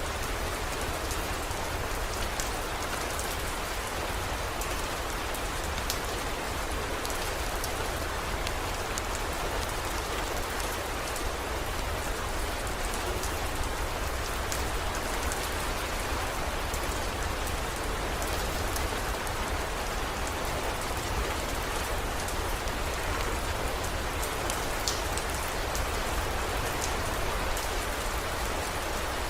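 Steady heavy rain falling, an even hiss with scattered sharp drop ticks over a low steady rumble.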